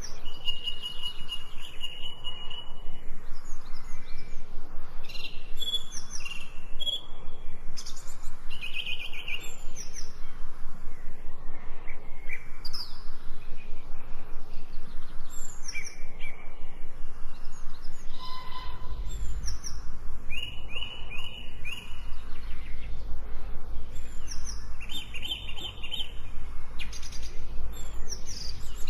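Birds chirping and singing in short repeated phrases over a steady rain hiss. A low rumble comes in about two-thirds of the way through.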